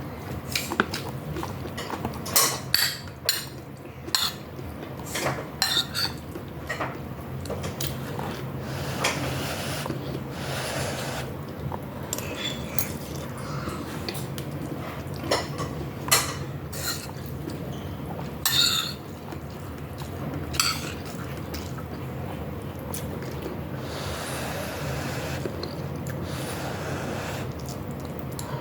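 Spoon or fork clinking and scraping against a dish during a meal: irregular sharp clicks at uneven intervals, over a steady low hum.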